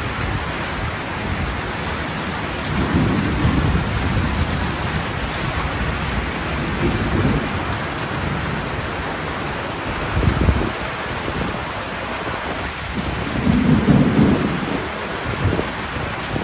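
Heavy rain pouring down steadily, with several low rumbles of thunder rolling over it, the loudest near the end.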